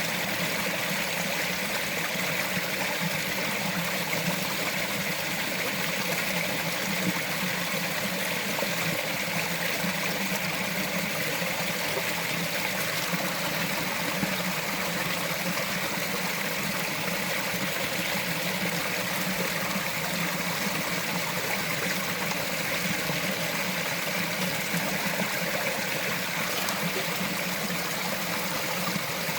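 Small mountain stream flowing and trickling over rocks: a steady, even rush of water.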